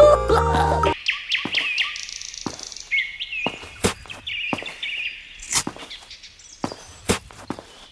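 Small birds chirping steadily, with about eight sharp taps or knocks at uneven intervals. A short music tune cuts off about a second in.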